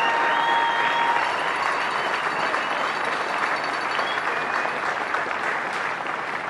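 Crowd applauding, with a few held cheers near the start; the applause slowly dies down.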